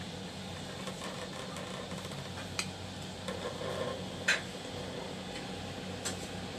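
A mouthful of rice being chewed quietly over a steady low room hum, with a few small clicks, the sharpest about four seconds in.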